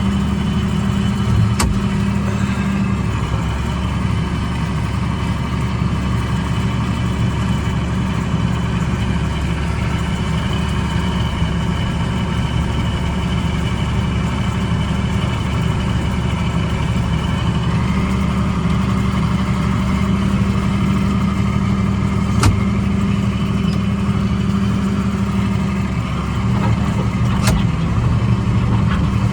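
1977 John Deere tractor's engine running steadily, its speed rising a little past the middle. Three sharp short knocks sound over it.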